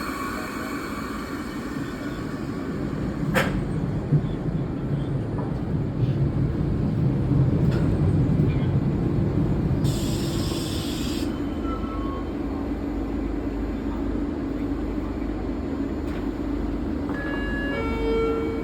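MBTA Red Line subway train running, a steady low rumble that swells in the middle, with a short hiss of air about ten seconds in. A few short tones sound near the end.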